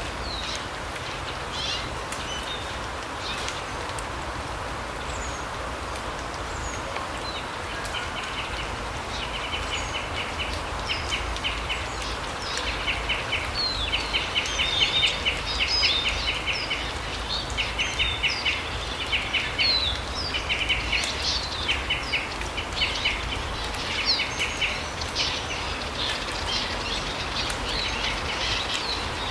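Small forest birds calling: short rapid trilled rattles repeated again and again from several seconds in, mixed with brief high chirps, over a steady background hiss of forest ambience.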